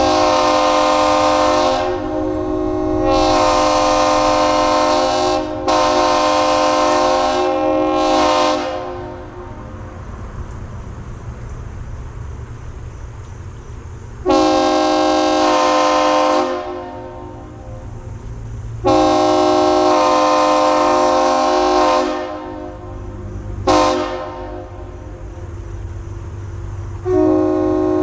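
Nathan Airchime K3HL three-chime train horn blowing its chord in a string of blasts, mostly long ones of about two seconds with a few short toots between. The pitch holds steady through each blast: the horn is sounded standing still, not passing by.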